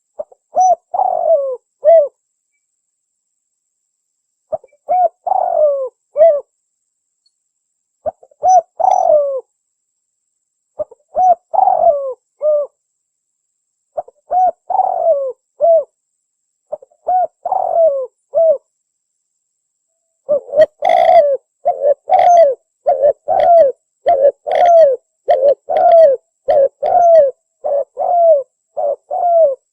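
Spotted dove (tekukur) cooing: a phrase of several coos about every three seconds, with complete silence between phrases. About two-thirds of the way through, the coos come in a quicker, unbroken run.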